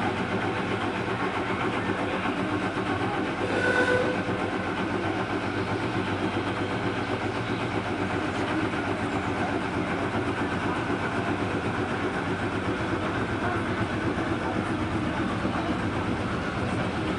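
Narrow-gauge park railway train running steadily as it sets off, its engine running evenly under the noise of the cars. A brief tone sounds about four seconds in.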